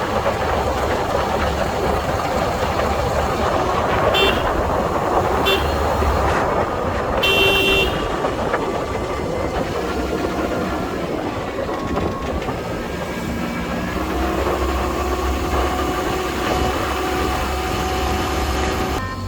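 Car driving along a road, with steady engine and road noise. A horn toots twice briefly about four and five seconds in, then gives a longer toot a couple of seconds later.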